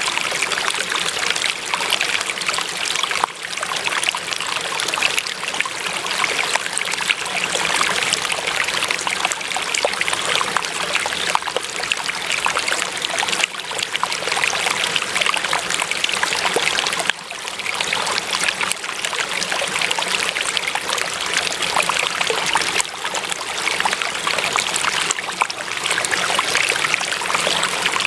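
Water trickling and babbling in a small stream: a steady splashing rush.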